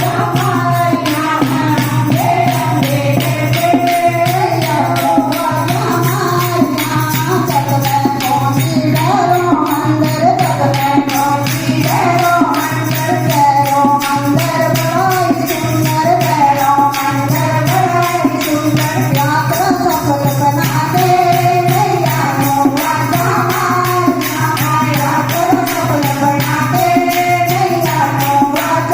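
Devotional kirtan bhajan: voices singing a melody over a steady, fast percussion rhythm and a sustained low drone.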